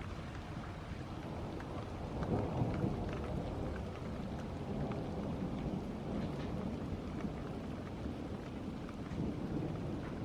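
Steady rain falling, with a low rumble of thunder that swells about two seconds in and then fades back into the rain.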